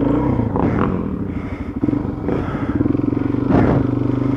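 Dual-sport motorcycle engine running at low revs with an even, pulsing exhaust beat, the pitch shifting a little as the throttle changes, with a few sharp knocks.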